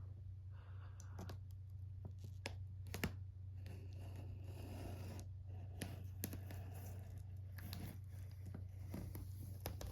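Cardboard fan box being handled and worked open: faint scratching, tearing and scattered clicks of cardboard and tape, over a steady low hum.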